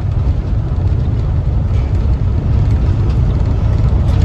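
Railway passenger car in motion on the track: a steady low rumble of wheels and running gear on the rails.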